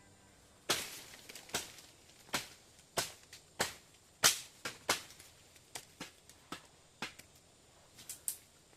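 A series of sharp, short knocks or strikes, irregularly spaced at roughly two a second, the loudest a little past the middle.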